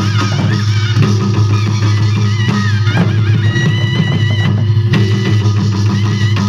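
Korean traditional music for the Jindo drum dance: drum strokes about once a second under a wavering, sustained melody and a steady low tone.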